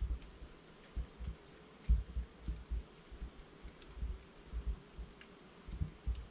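Wood logs burning in a fireplace, crackling: scattered sharp pops and snaps over irregular soft low thumps of the flames, with one sharper snap a little before four seconds in.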